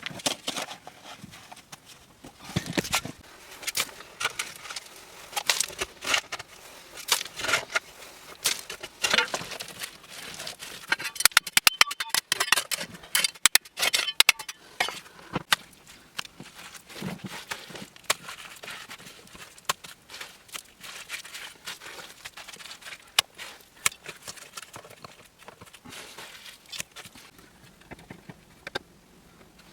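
Irregular knocks and clicks, with a fast run of clicks about twelve to fourteen seconds in.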